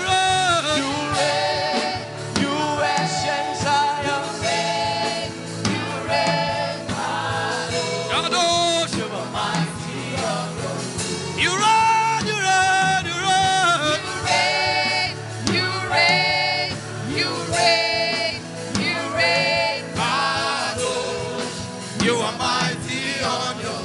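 Gospel worship singing over instrumental accompaniment.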